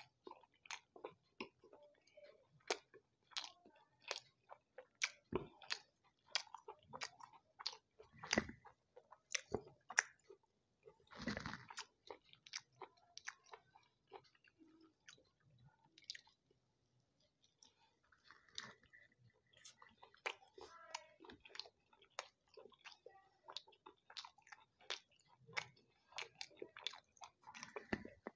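A person chewing food with wet mouth clicks and smacks, the clicks thinning out for a few seconds around the middle.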